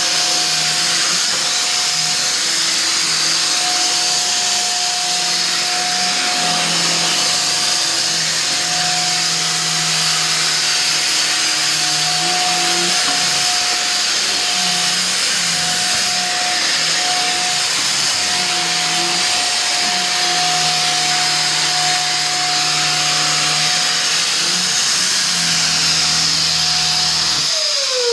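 Electric motor appliance running steadily, with a loud airy hiss and a constant whine. Near the end it is switched off, and its pitch falls away as it spins down.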